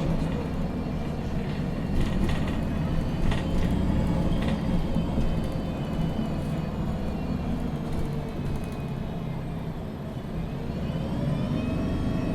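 MAN NG 313 CNG articulated city bus, heard from inside the cabin: its compressed-natural-gas engine running low and steady, with rattles from the body and fittings a couple of seconds in. Near the end a whine rises in pitch as the bus accelerates.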